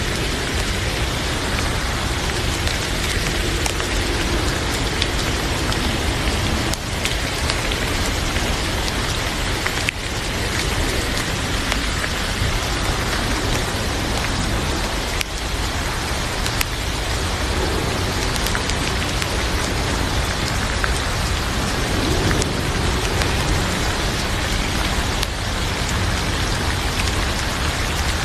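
Heavy rain falling steadily, with faint scattered crackles from a fireplace.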